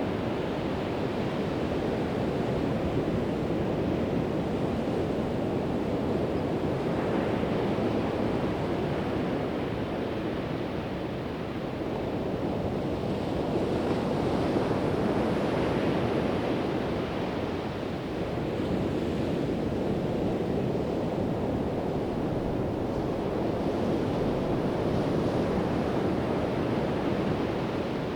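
Pacific Ocean surf: a continuous wash of waves that swells as each breaks and eases between them, every several seconds.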